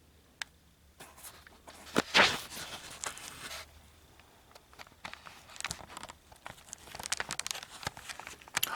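Close rustling and scraping with scattered clicks and knocks, the sound of things being handled in a small room: a single click about half a second in, a louder rustling stretch from about one to three and a half seconds, then sparser clicks and rustles.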